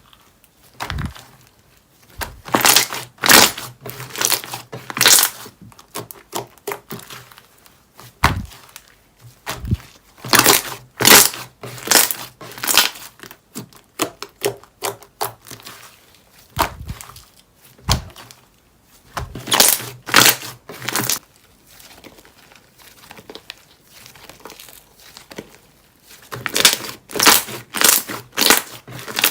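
Slime being squeezed and pressed by hand, giving crackling, popping clicks in bursts a few seconds long, with quieter scattered pops between the bursts.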